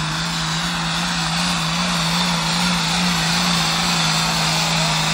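Modified turbo-diesel tractor engine running hard at a steady speed: a constant drone with a wide rush of exhaust and turbo noise over it.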